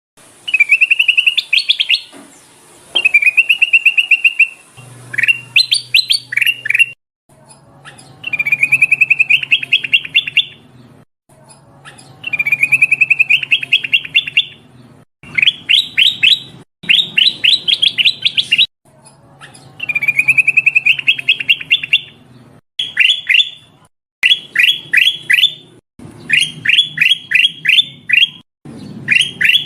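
Kutilang emas bulbul calling again and again. Each phrase lasts one to two seconds and is either a fast, even trill or a quick run of sharp separate notes, with short pauses between phrases. It is a lure (pikat) call, given as a female calling a male, with a faint low hum beneath it.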